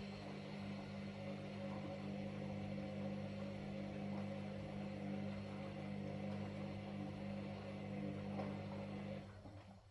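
Washing machine running with a steady motor hum and drum noise, which stops near the end.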